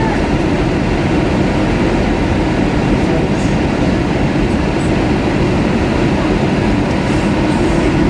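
Steady, unbroken roar inside the passenger cabin of an Airbus A320 in flight: engine and airflow noise, strongest in the low range.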